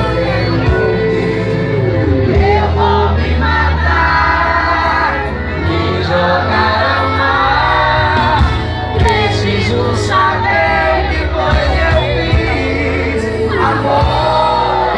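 Live band music with a voice singing over it.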